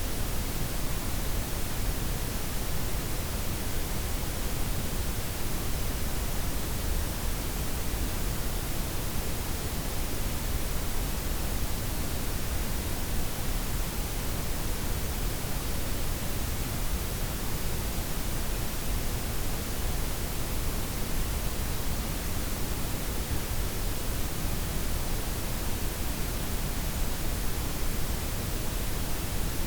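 Steady synthetic noise: a blend of white, pink and brown noise, even and unchanging, with the weight in the lows and the highs softened.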